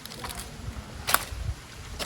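Footsteps on a dirt and rock trail: a few soft scuffs with one sharper click a little over a second in.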